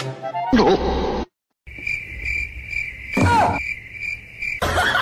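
A high, steady chirping that pulses about three times a second, like an insect, starting about two seconds in and stopping just before the end. A short falling sound cuts across it in the middle.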